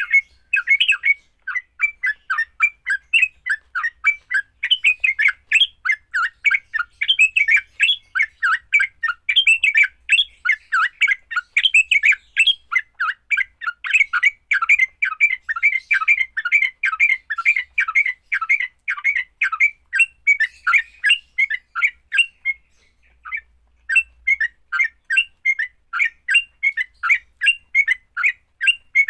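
Yellow-vented bulbul (trucukan) giving fast, harsh chattering fighting calls, about three notes a second, with a short break near the end.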